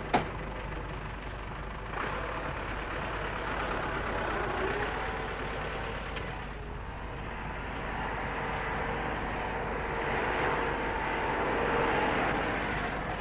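Massey Ferguson 600 series tractor's diesel engine running steadily at power-take-off speed, working to hold its revs under load. It picks up about two seconds in and swells again near the end, with a sharp click at the very start.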